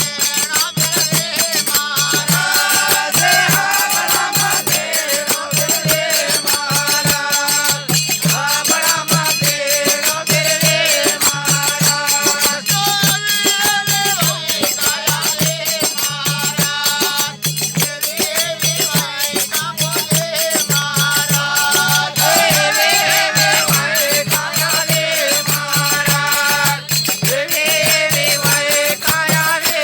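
Bhajan music: a melody over a steady drum beat, with constant jingling rattle percussion.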